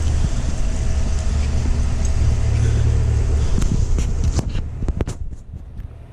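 2025 Chevrolet Tahoe High Country's exhaust idling at the tailpipe with a steady low rumble, which fades about two-thirds of the way through among a few sharp clicks.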